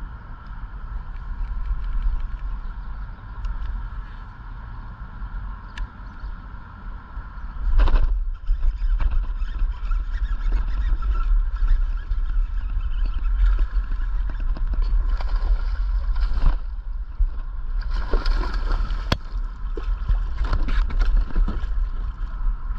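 Wind rumbling on the microphone, then about eight seconds in a sudden splash followed by repeated splashing and sloshing of water as a big bass that struck a topwater lure is fought in.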